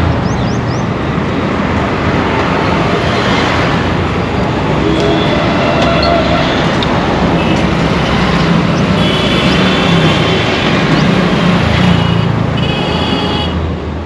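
Dense Indian road traffic: a steady wash of engine and tyre noise, with vehicle horns sounding several times, the longest about a second and a half, twice in the second half. The whole sound fades down at the end.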